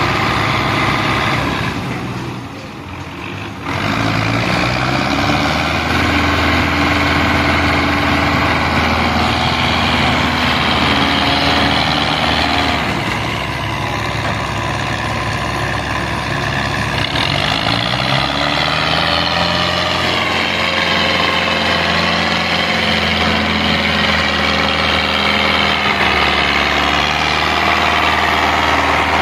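Diesel tractor engine running hard, its pitch rising and falling several times as it is revved, with a short drop in level about two seconds in before it picks up again.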